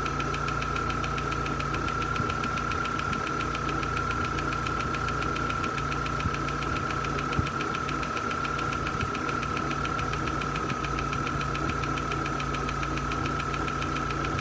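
Corsa C 1.4 16V four-cylinder petrol engine idling warm, with a fast, even ticking over its running and a steady high whine. The ticking is the fault being shown, which gets louder the longer the warm engine runs.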